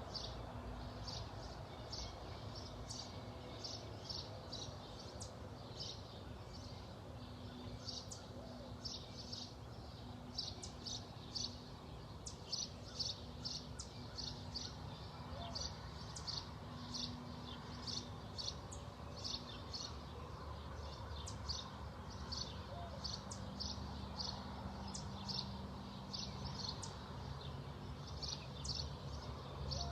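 Bird chirping: short, high chirps repeated about two a second without a break, over a faint low steady hum.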